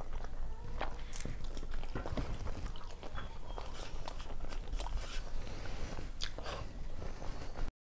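Close-miked eating sounds: chewing with wet lip smacks and mouth clicks as food is eaten by hand, with fingers wiping a steel plate. The sound cuts off abruptly near the end.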